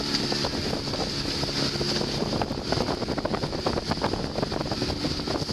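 Heavy wind of about 30 knots buffeting the microphone aboard a Sprinto sailboat, over water rushing and slapping against the hull with many short splashes.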